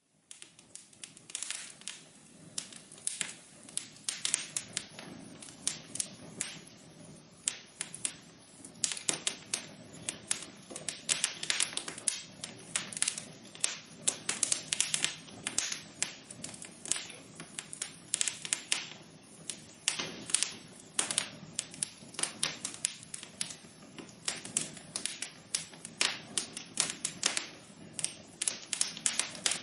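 Wood fire burning in a fireplace, crackling with irregular sharp pops, sometimes several a second, over a soft steady low rush of the flames.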